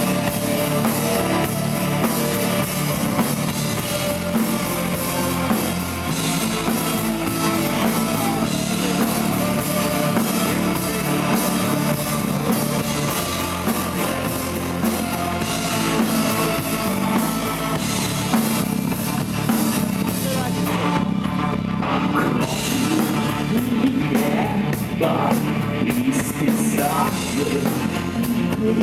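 A live rock band playing with a drum kit and guitars, the music loud and continuous.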